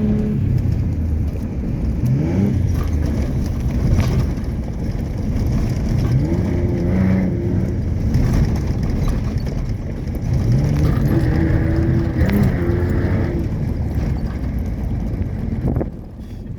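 Off-road trophy truck's engine revving up and easing off several times as it is driven hard, each rev a climbing pitch; the engine noise drops away near the end.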